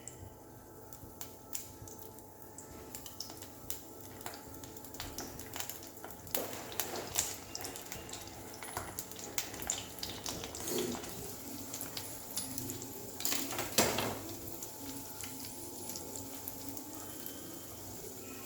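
Soya poha tikkis shallow-frying in oil in a pan: a steady sizzle with small crackling pops that grows busier about six seconds in.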